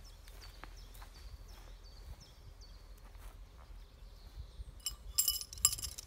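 A small bird calling in a run of short, high, falling notes, about two a second, for the first three seconds or so. Then, about five seconds in, a few bright metallic clinks, the loudest sounds here.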